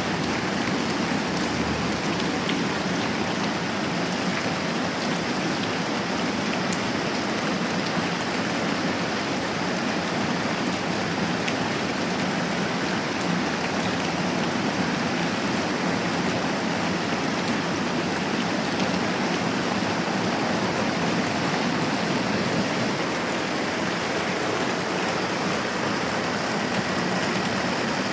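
Moderate rain falling steadily, an even hiss with no pauses or distinct drops standing out.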